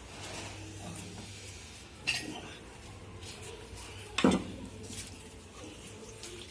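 Metal parts knocking and clinking against each other: two sharp knocks about two seconds apart, the second louder, over a low steady hum.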